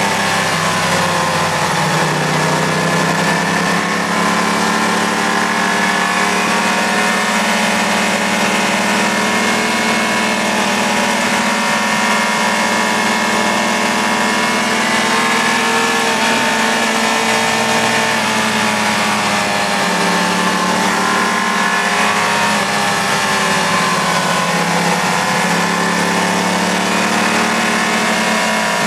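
Sport motorcycle engine heard from on board at cruising speed, its note rising and falling gently every few seconds as the throttle is worked, with steady wind hiss over it.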